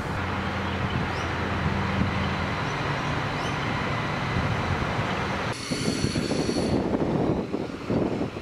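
A two-car 3000-class diesel railcar set passing, its engine drone and running noise steady for about five seconds. Then the sound changes abruptly to wind buffeting the microphone, with a brief high squeal from the wheels.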